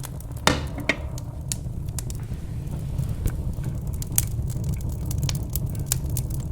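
Log fire crackling, with irregular sharp pops over a steady low rumble of the flames; two loud pops come about half a second and one second in.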